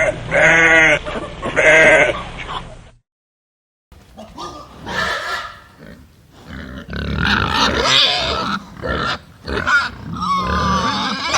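Two wavering bleats from a goat or sheep, then a sudden edit to about a second of silence. After it come pigs grunting, with a higher squeal near the end.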